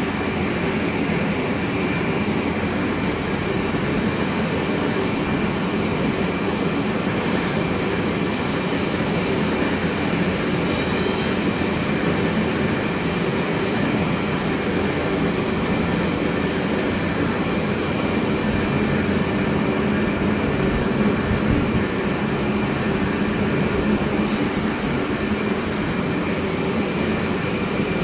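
Vertical lathe running: a steady heavy machine hum with a thin high whine held throughout.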